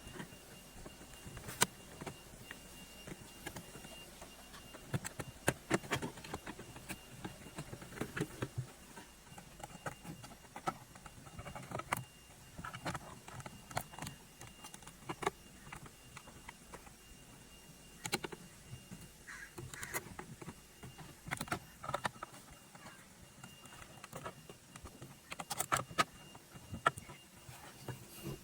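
Irregular small clicks, taps and rattles of hand tools and small parts being handled during work on a BMW i3's Park Neutral Position switch, with a faint steady high tone underneath.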